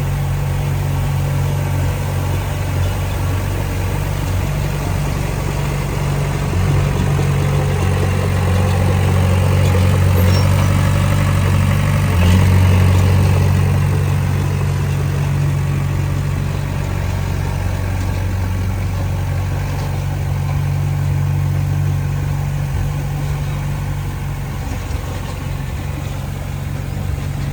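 Heavy diesel engine of earthmoving machinery running steadily with a low drone. It swells louder around ten to thirteen seconds in, then eases back.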